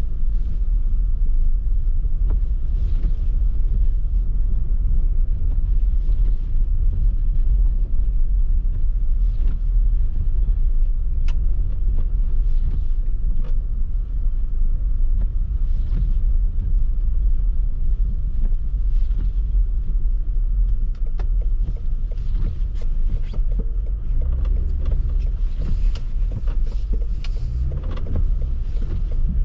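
Car driving through snow: a steady low rumble of engine and tyres, with faint scattered ticks and swishes over it.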